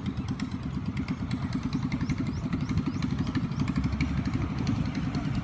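Taxi boat's engine running with a rapid, steady low chugging.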